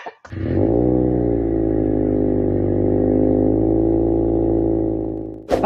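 Subaru boxer engine running at a steady pitch. It rises briefly in the first second, then holds, and stops abruptly about five seconds in.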